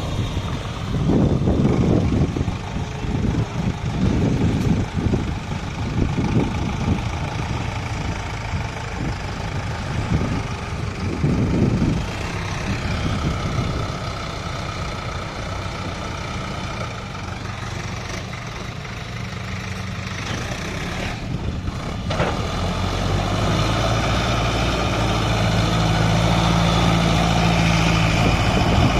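Sonalika DI 55 RX four-wheel-drive tractor's diesel engine running. It is uneven and surging at first, then steadier, and from about two-thirds of the way in it holds a louder, steady note.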